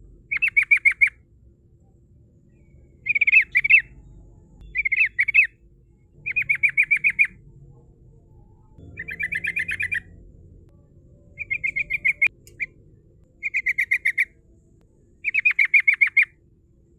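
Yellow-vented bulbul (trucukan) singing in short, repeated bursts of rapid chattering notes, one phrase every second or two.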